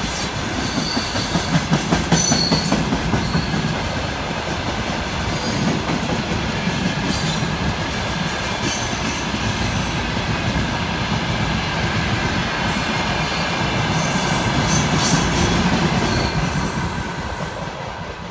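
Freight train cars, tank cars then covered hopper cars, rolling past steadily with a continuous rumble and clatter of wheels on rails. Short, high-pitched squeals come in several times, about two seconds in, around six seconds and near fifteen seconds. The sound fades slightly near the end.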